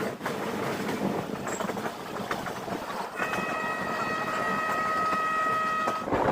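Train running on the rails with wheel clatter, and about three seconds in a train horn sounds, one steady held note for about three seconds before cutting off.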